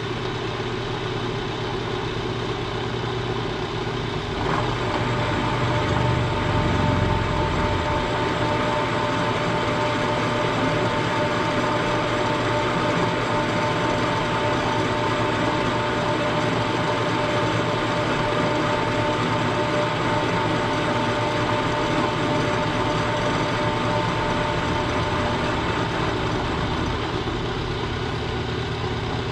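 Milling machine running steadily, its end mill facing the front edge of an engine frame casting. A steady whine from the cut comes in about four seconds in and fades out near the end.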